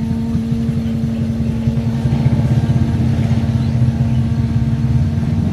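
A motor vehicle's engine rumble grows louder through the middle and eases near the end, over a steady hum.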